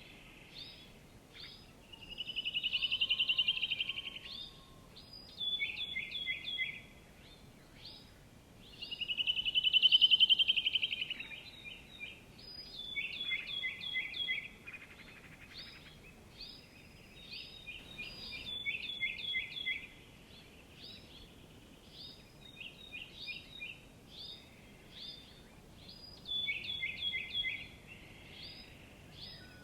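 Songbirds singing: repeated phrases of quick downward-sliding chirps, with two longer rapid trills that swell and fade, the louder one about ten seconds in.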